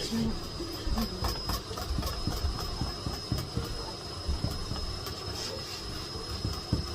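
Miele Blizzard CX1 cylinder vacuum cleaner running with a steady high whine, its nozzle worked over a mattress with irregular knocks and scrapes. The nozzle keeps sucking down onto the mattress, so the vacuum labours and the head won't glide.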